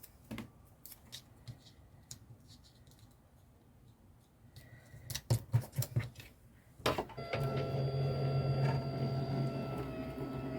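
A few light clicks and rustles of craft items being handled. About seven seconds in, a small electric machine starts up and runs steadily with a low hum and a few higher, steady whines.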